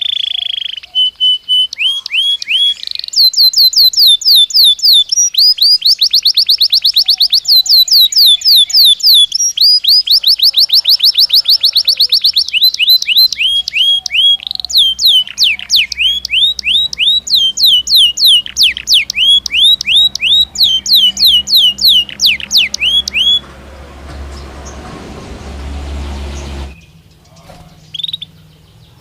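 Belgian canary singing a long song of fast trills: rapid runs of repeated falling high notes, changing from one roll to the next. The song stops about 23 seconds in, and a soft rushing noise follows that cuts off suddenly, with a few short notes near the end.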